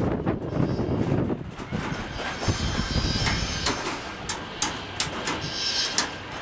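Irregular knocks and metallic clatter from sheet-metal work, with a low rumble in the first second and a half.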